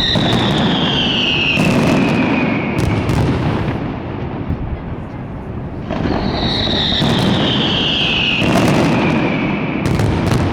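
Fireworks display: a steady rumble of shell bursts with sharp cracks, and two long whistles that fall slowly in pitch, one at the start and another about six seconds in.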